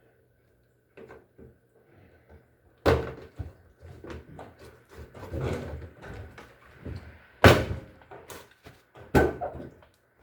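Handling noises: scattered knocks and clatter, with three sharp bangs about 3, 7.5 and 9 seconds in, like a panel or door being knocked and set down.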